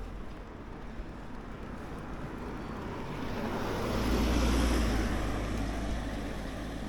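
A vehicle passing by: a rushing road noise that swells to a peak about four to five seconds in, then fades.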